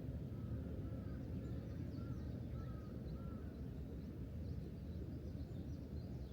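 Birds calling outdoors over a low steady background rumble: one bird gives a quick run of about six short repeated notes in the first half, while faint high chirps from other birds come and go.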